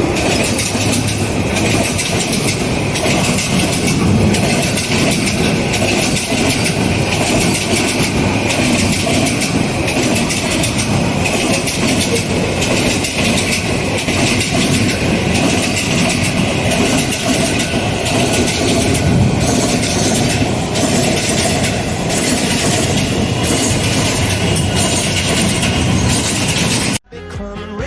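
Train running on rails, with a steady, loud rattle and clatter of the wheels over the track joints. It cuts off suddenly near the end.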